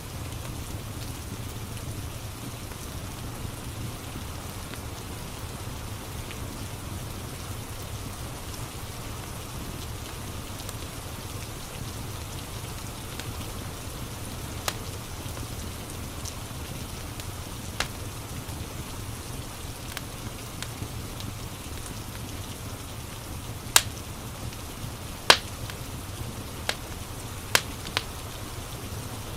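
Steady rain ambience, a constant hiss with a low rumble underneath, and the sharp pops of a crackling wood fire. The pops are scattered and come mostly in the second half, two of them louder than the rest.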